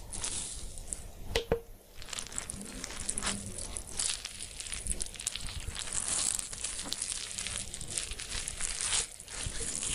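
Restored hand-cranked meat grinder being tested: continuous crunching and crackling as food is forced through it, with many small clicks and one sharper click about a second and a half in.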